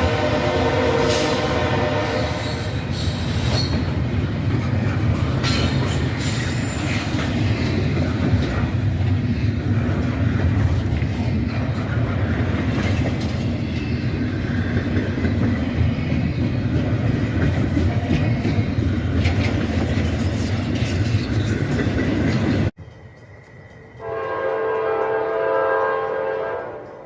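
Diesel locomotive horn sounding for about two seconds over the steady rumble and wheel clatter of a passing train. After an abrupt cut, a second horn blast lasts about two and a half seconds near the end and fades.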